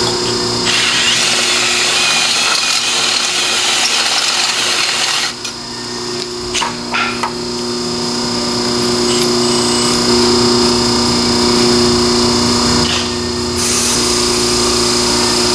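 A power tool running on exhaust tubing. A loud stretch of about four seconds stops, a few sharp clicks follow, and then it runs steadily again.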